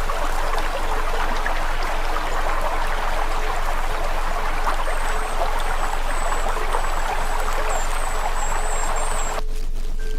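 Campfire burning with a dense, steady crackle that cuts off abruptly about nine seconds in, with faint high chirps in the second half.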